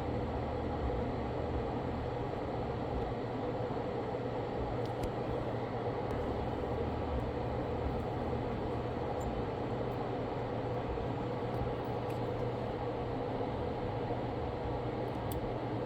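Steady fan-like running noise with a low hum underneath, and a few faint ticks.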